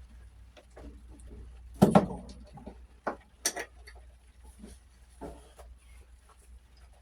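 Hand tools clinking and knocking against metal tractor parts while a stuck bolt is worked loose, with a heavier knock about two seconds in and two sharp clanks soon after.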